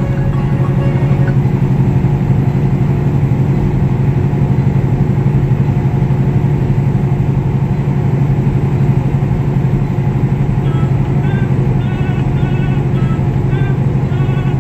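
Steady low drone of a semi truck's engine and road noise heard from inside the cab while driving. Faint short high tones repeat about twice a second in the last few seconds.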